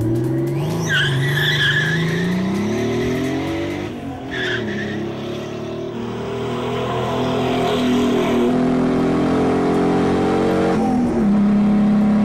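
Nissan R30 Skyline accelerating hard on a 60-horsepower nitrous shot: the engine revs climb from the launch, with the tyres squealing briefly about a second in. The engine note drops at a gear change about four seconds in and climbs again, drops once more near the end, then holds steady.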